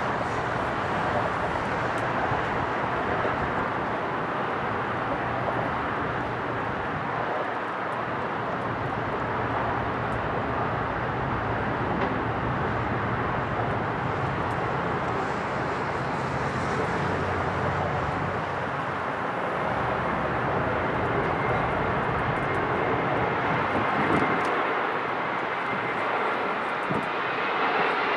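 Airbus A320 on approach to land: a steady rushing jet noise from its turbofan engines, with a rising engine whine coming in near the end as it draws closer.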